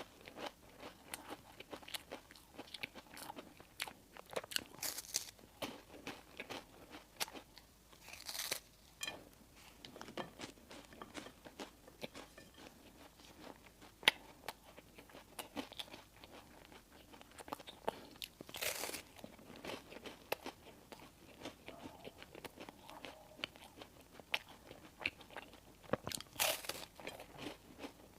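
Close-miked eating: a steady run of small crunching and chewing clicks from crispy baked food such as a toasted sesame bun, with a few louder crackly bites spaced through.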